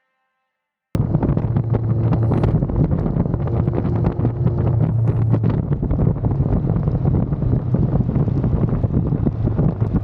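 Motorcycle riding at speed: heavy wind noise on the microphone over a steady low engine drone. It cuts in abruptly about a second in, after a moment of silence.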